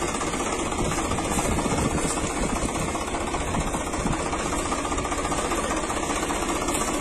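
A small motor running steadily, with a fast, even rattle.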